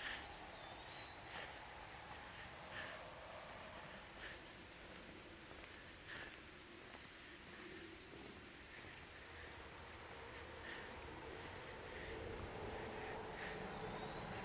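Steady high-pitched chirring of an insect chorus, with faint light taps recurring every second or so.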